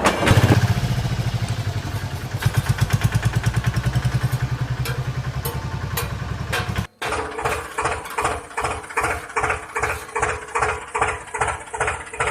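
Diesel tractor engine running with a fast, even beat. About seven seconds in it cuts off suddenly and gives way to a slower thumping run of about two beats a second.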